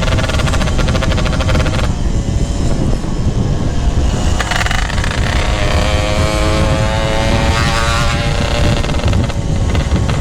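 Two-stroke Yamaha RX-King motorcycle running through a GRT18 aftermarket exhaust while riding, its engine pitch rising and falling with the throttle, over a heavy wind rumble on the microphone.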